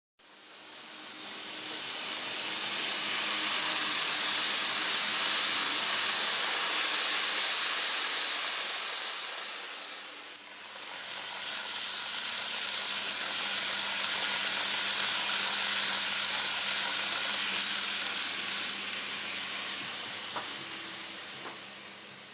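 N-gauge model of a 185-series electric train running on the track: a steady hissing rush of small wheels on the rails with a faint motor hum. It swells as the train comes near, dips briefly about ten seconds in, then swells again and fades away.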